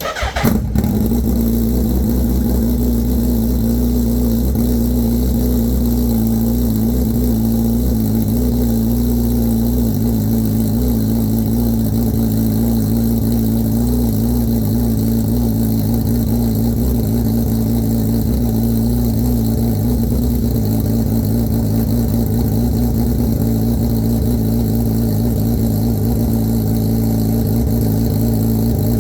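Suzuki Hayabusa inline-four motorcycle engine started from cold: it fires and catches right at the start with a brief flare, then settles into a steady idle.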